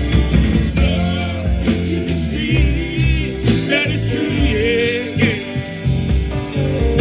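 Band music with guitar, bass and drums, and a voice singing with a wavering vibrato through the middle.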